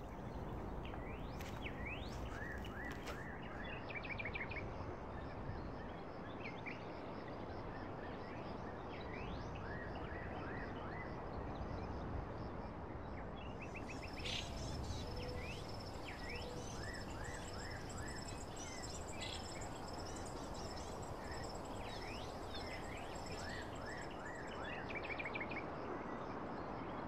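Outdoor ambience: small birds chirping in short quick runs over a steady hiss, with a thin, steady high-pitched tone coming in about halfway.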